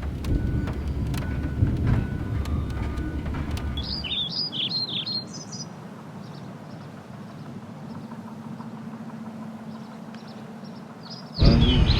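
A low rumble, then a songbird chirping a quick run of high notes about four seconds in over a faint steady hum. A loud low rumble cuts in suddenly near the end.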